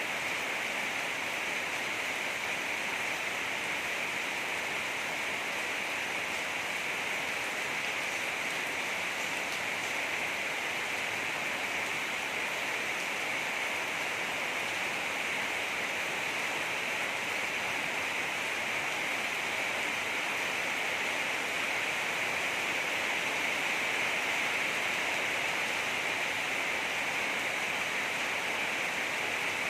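Heavy rain pouring down as a steady, unbroken hiss.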